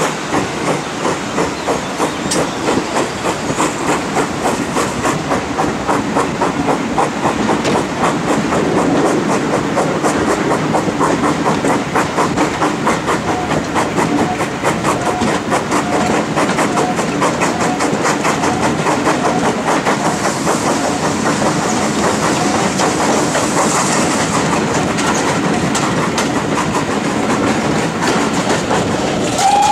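Steam locomotive working a train, with rhythmic exhaust beats, steam hiss and wheels clicking over the rail joints. A whistle starts right at the end.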